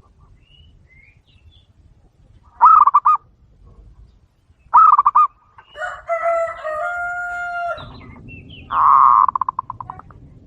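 Zebra doves (perkutut) cooing in short bursts of rapid, trilled notes, three times; the last burst trails off in quickening pulses. Between the second and third bursts another bird gives a longer call of about two seconds on several held pitches.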